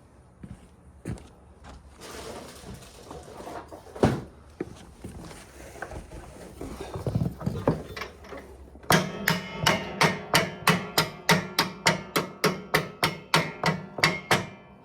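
A few single knocks, then a fast, even run of ringing metallic strikes, about four a second, starting about nine seconds in. The back of an axe is hammering on a stuck bolt or pin on a John Deere Z335E zero-turn mower deck to drive it out.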